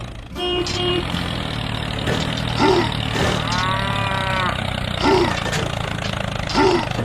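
Cattle mooing several times, the longest call about midway, over a steady low engine hum.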